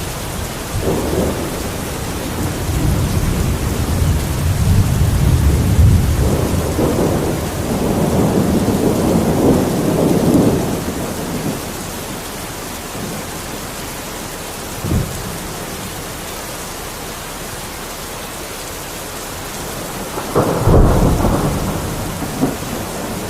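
Steady rain with thunder. A long rolling rumble builds and fades in the first half, a short crack comes about two-thirds through, and a louder, sharper thunderclap with a rumble comes near the end.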